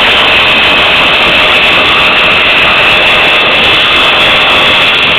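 Motorcycle engine held at high revs, loud and steady.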